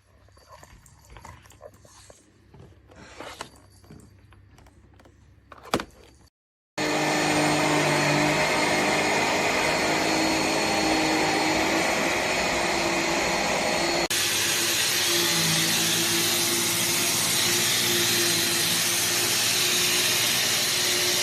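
A few seconds of faint handling clicks and knocks. Then the JIMMY BX7 Pro dust-mite vacuum cleaner starts suddenly and runs loud and steady, a rush of air over a motor hum, with a slight change in its sound about two-thirds of the way through.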